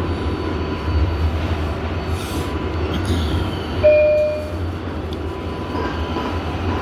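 R142A subway car running on the track: a steady low rumble of the wheels and motors, with a short, loud wheel squeal about four seconds in.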